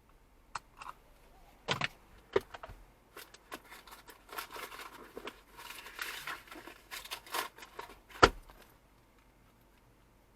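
Jumbled clicks, rattles and rustling of small objects being handled, with one sharp knock about eight seconds in, the loudest sound.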